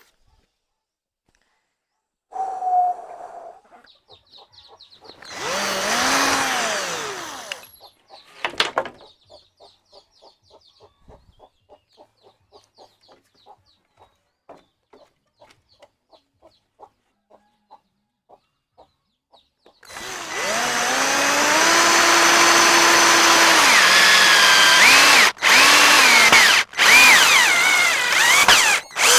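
Electric drill running in spells. First a short run whose pitch winds down, then a string of light ticks, then a long loud run in the last nine seconds. In that last run the motor pitch dips and rises under load, and it stops briefly twice near the end.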